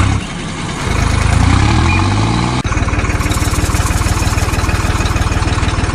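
A tractor-style engine chugging steadily in fast, even pulses. It rises in pitch between about one and two and a half seconds in, breaks off sharply, and then runs on at a steady idle.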